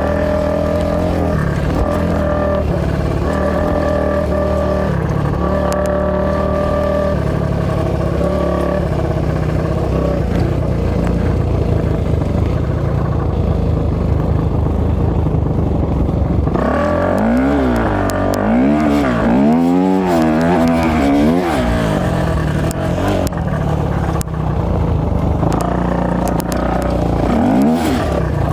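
A 450cc four-stroke single-cylinder off-road engine from a dirt bike or sport quad, running at a fairly even pitch. About two-thirds of the way in, the engine note swings quickly up and down for several seconds as the throttle is worked, and it swings again briefly near the end.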